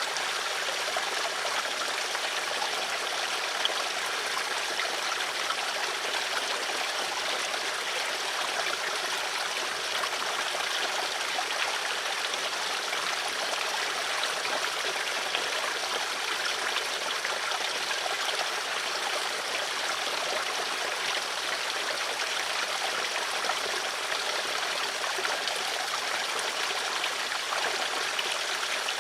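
Running water flowing steadily: a constant rush with fine splashing throughout.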